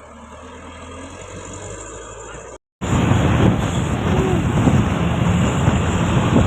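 Truck on the road: a low engine hum growing steadily louder, then, after a brief cut-out about two and a half seconds in, much louder rushing road noise of passing traffic.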